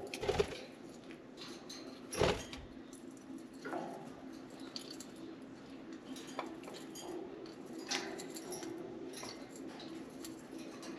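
Budgies chewing and rattling a soft-wood shreddable toy: irregular small clicks, taps and knocks, with two louder knocks at the start and about two seconds in, over a faint steady low hum.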